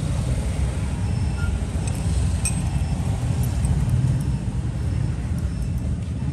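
Steady low rumble of road traffic, with a few faint light clinks, about two and a half seconds in and again later.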